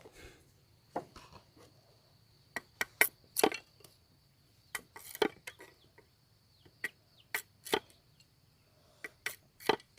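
Irregular sharp cracks and knocks of wooden sticks being worked by hand, the loudest a few seconds in, over a faint steady high-pitched tone.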